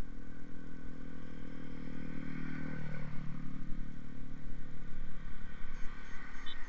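Motorcycle engine idling steadily, its note shifting slightly about three seconds in.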